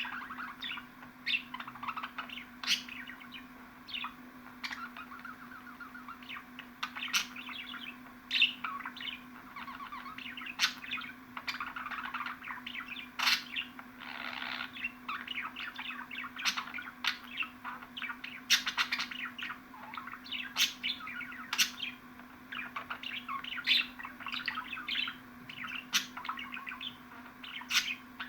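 Budgerigars chattering and warbling, with fast chirps and frequent sharp calls over a faint steady hum.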